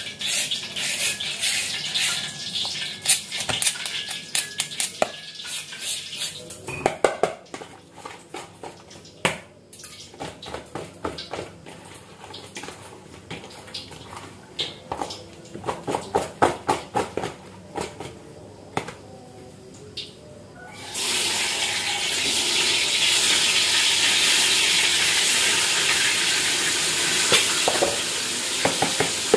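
Hands working food in plastic bowls, with scattered clicks and taps. About two-thirds of the way in, tempeh goes into hot oil in a wok and a loud, steady frying sizzle starts suddenly.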